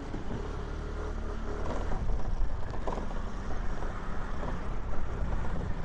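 Aprilia SR150 scooter's single-cylinder engine running while riding, under a steady heavy low rumble of wind and road noise.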